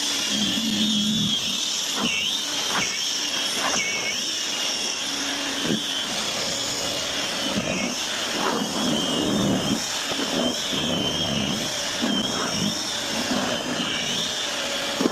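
Snow blower running while clearing a snowy sidewalk, with a steady high whine that wavers slightly in pitch and a few brief knocks.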